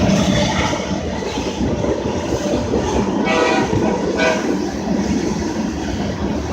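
A train rolling past close by with a steady rumble of wheels and cars. Its horn sounds two short blasts, about three and four seconds in.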